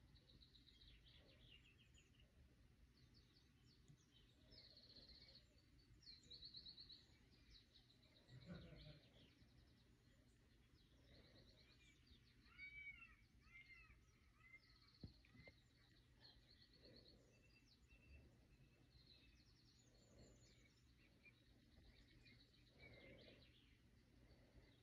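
Very faint room tone with distant birds chirping and trilling now and then, some calls in quick rapid trills and some as short arching chirps. A soft low thump comes about eight seconds in.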